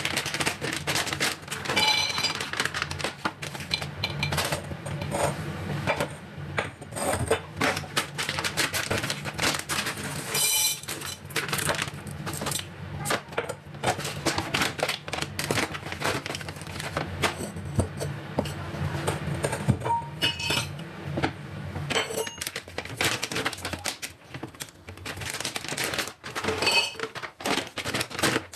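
Kitchen utensils and dishes clinking and clattering as they are picked up and set down, with now and then a short metallic ring. A steady low hum runs behind until about three-quarters of the way through.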